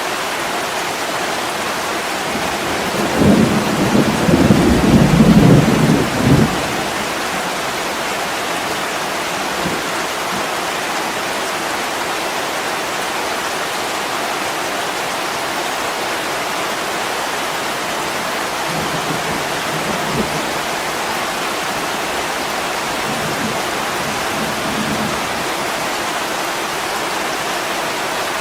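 Steady heavy rain, with a low rumble of thunder swelling about three seconds in and lasting about three seconds, and fainter low rumbles later on.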